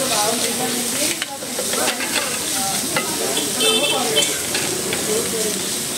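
Egg mixture sizzling in oil on a large flat tawa, while a metal spatula scrapes and taps against the hot griddle a few times.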